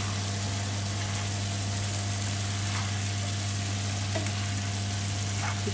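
Glass noodles with carrot and cucumber strips sizzling in a hot frying pan as they are stirred, with a few faint utensil taps. A steady low hum runs underneath.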